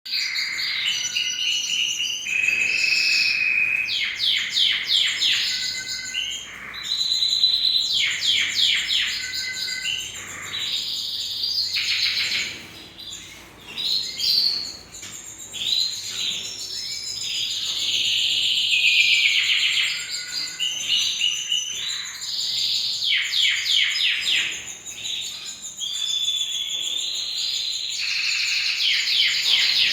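Domestic canary singing a long, continuous song of fast trills, rapid repeated notes and held high whistles, changing phrase every second or two.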